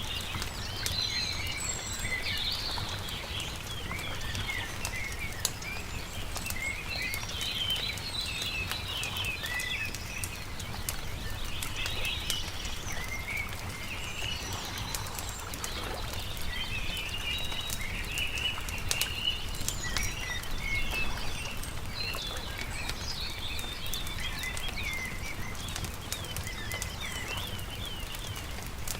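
Small songbirds chirping and twittering in a dense, continuous chorus, over the light crackle of a wood campfire and a steady low rumble.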